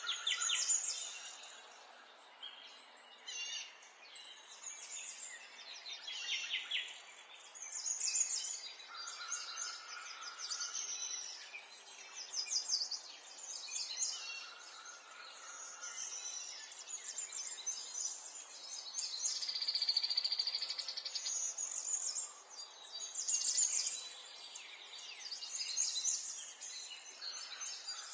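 Several songbirds singing and calling at once: rapid high chirps and trills come and go throughout, with a few held whistled notes, over a faint steady background hiss.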